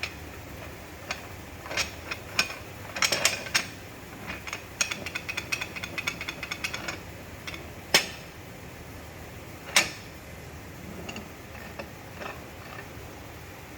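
Renault Clio 2 steering rack clicking and knocking, the steering rack noise fault: scattered clicks, quick runs of clicks a few seconds in, and two louder knocks about eight and ten seconds in.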